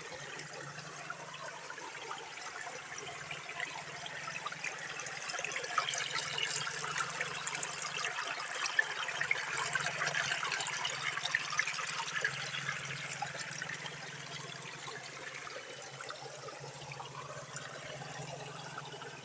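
Water spouting and splashing steadily, with many small splashes, growing louder for several seconds in the middle before easing back.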